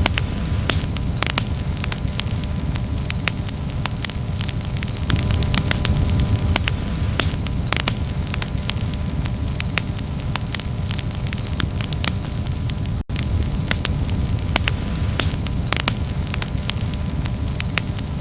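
Campfire burning steadily: dense, irregular crackles and pops of burning wood over a low, constant rumble of flame. The sound cuts out for a split second about thirteen seconds in.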